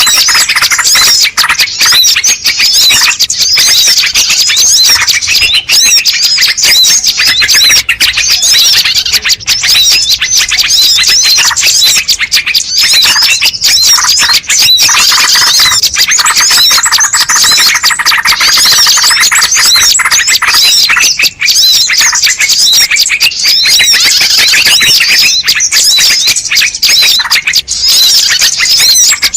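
Dense, loud chorus of many small birds chirping and twittering at once, overlapping calls with no pause: a bird-lure (pikat) call track meant to draw wild birds in.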